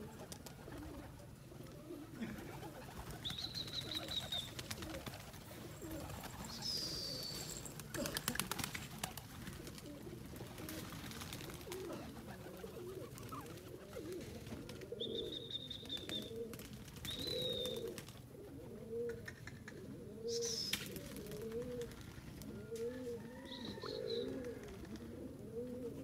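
Birds calling: a low, wavering cooing repeats, most often in the second half, with short high whistled notes every few seconds.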